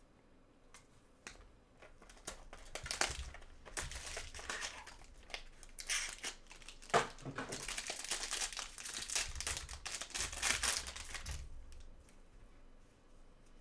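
Wrapper of a trading card pack crinkling as it is torn open and handled, a dense crackle that starts about two seconds in and dies away about two seconds before the end.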